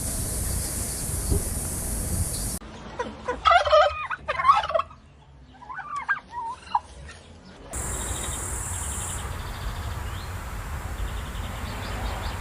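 Turkey gobbling in two quick runs of rapid warbling calls, with outdoor background noise before and after.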